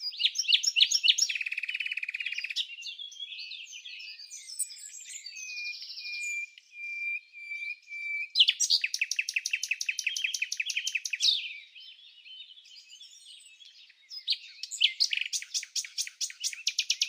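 Birds singing: high, rapid trills and chirps, a run of short even whistled notes in the middle, then fast trills again.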